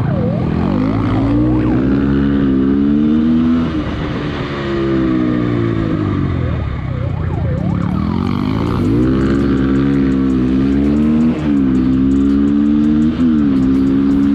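Motorcycle engine running hard under acceleration, its pitch climbing and falling with the throttle. In the second half it climbs again, with two quick gear changes near the end.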